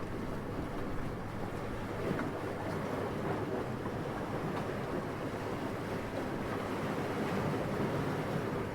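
Steady wind noise, a continuous low rushing without gusts or breaks.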